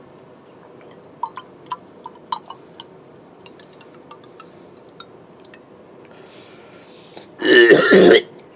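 A few light clinks and ticks of a glass drink container being handled, then near the end a short, loud vocal outburst from a man, an exclamation without words.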